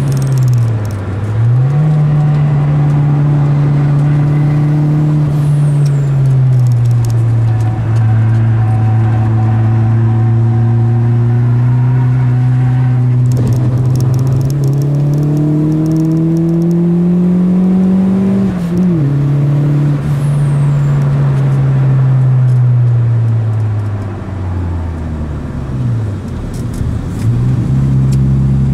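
VW Golf MKII Turbo's engine heard from inside the cabin while driven hard. The engine note dips and climbs near the start, holds, then rises steadily to a sudden drop about two-thirds through, which is a gear change. Near the end the revs fall away and then pick up again.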